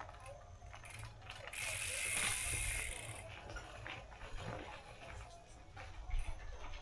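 Mountain bike's rear freehub ratcheting in a fast, bright buzz of clicks as the rider coasts, loudest from about one and a half to three seconds in, over a steady low rumble.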